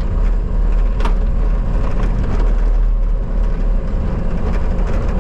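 Bobcat skid steer engine running steadily under work, with a sharp knock about a second in.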